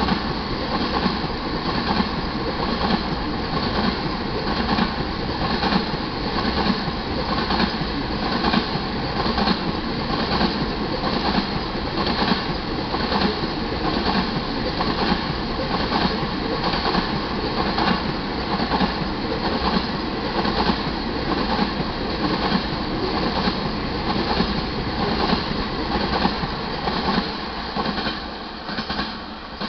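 Tank cars of a crude oil freight train rolling past, their wheels clicking in a steady rhythm over the rail joints, with the grade-crossing warning bell ringing. The rolling noise fades away near the end as the last car passes.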